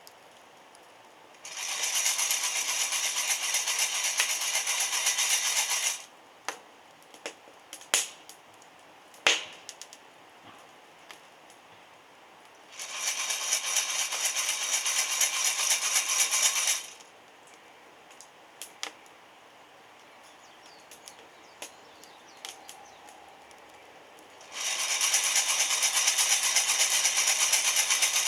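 Coffee beans rattling inside a hand roaster shaken over a wood fire, in three bursts of about four seconds each. A few sharp isolated cracks and pops come between the bursts.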